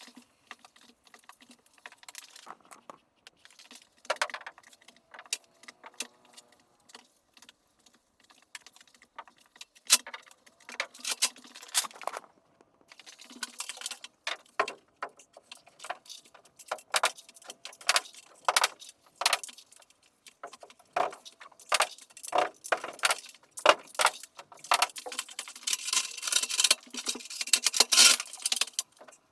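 Irregular sharp clicks and knocks of carpentry work with wood and metal tools, scattered at first and coming thick and fast from about halfway through.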